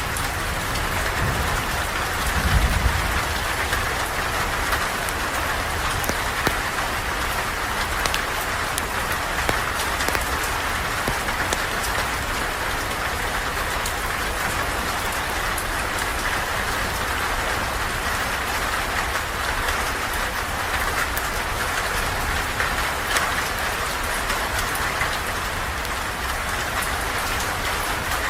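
Steady rain falling, an even hiss with scattered sharp drop clicks. A brief low rumble comes about two to three seconds in.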